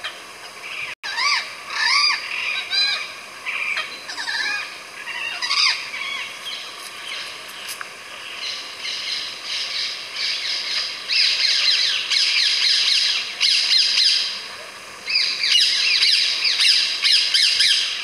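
Forest ambience of birds calling: scattered rising-and-falling chirps at first, building into dense overlapping chattering through the second half. The sound cuts out for a moment about a second in.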